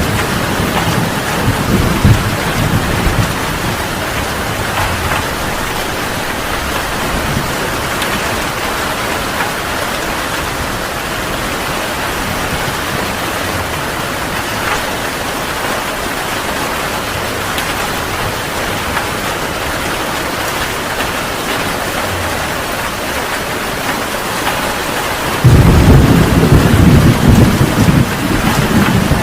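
Heavy rain falling steadily, with thunder rumbling. A low rumble of thunder sounds in the first few seconds, and a louder peal breaks in suddenly near the end.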